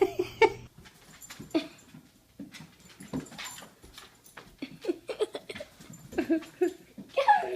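A dog whimpering and yipping in a string of short cries, loudest near the start and near the end.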